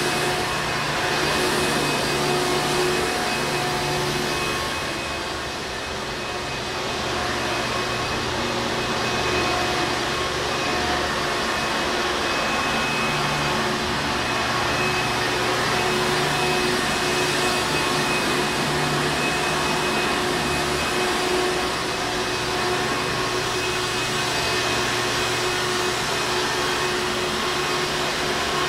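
Hoover Encore Supreme vacuum cleaner running steadily, a continuous motor and airflow whir with a slight dip in loudness about six seconds in.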